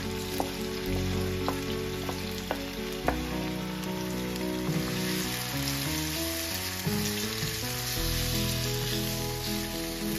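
Chopped tomatoes sizzling in hot oil in a non-stick karahi, stirred with a spatula that taps the pan a few times in the first three seconds; the sizzle grows stronger about halfway through. Background music plays along with it.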